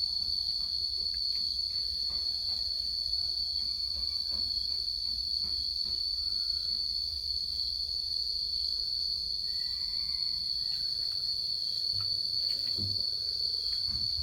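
Insects chirring in one steady, unbroken high-pitched drone, with faint scattered clicks and a couple of soft thumps near the end.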